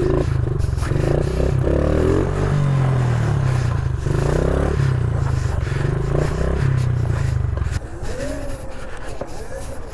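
Gas dirt bike engine running and revving up and down while riding. A heavy low rumble drops away about eight seconds in.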